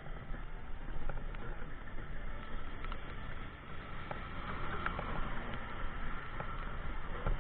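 Riding a bicycle through pouring rain: wind rumbling on the microphone over a hiss of wet road and rain, with scattered small clicks and knocks.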